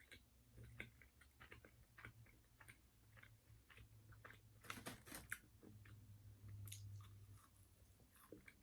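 Quiet close-miked chewing of KFC popcorn chicken: soft irregular crunches and mouth clicks, with a brief run of louder crunches about halfway through.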